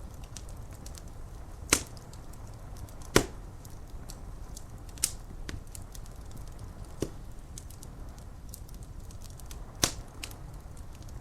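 Wood fire crackling: many faint ticks and five sharp pops, the loudest about three seconds in, over a steady low rush of rain.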